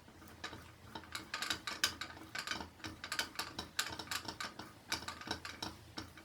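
Bobbin winder (caneleiro) turning as yarn is wound onto a weaving bobbin, giving a quick, irregular run of mechanical clicks and rattles.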